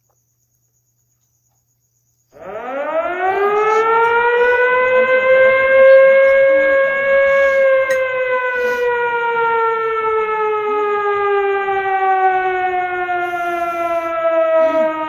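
A siren wails: it starts about two seconds in, winds up in pitch over a second or so, then holds and slowly sags lower.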